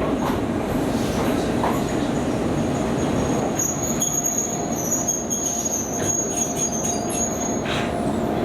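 Izuhakone Railway 7000 series electric train running and slowing to a stop, with a thin high-pitched squeal as it brakes. The squeal comes in about two seconds in, is strongest over the middle and stops shortly before the end.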